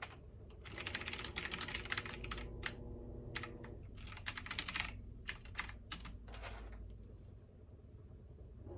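Typing on a computer keyboard: runs of rapid keystrokes with short pauses, stopping about a second and a half before the end, over a low steady hum.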